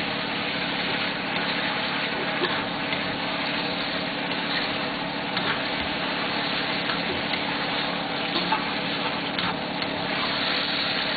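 Chicken and thick chili sauce sizzling in a wok as they are stirred and tossed, with a few light scrapes of the spatula, over a steady mechanical hum.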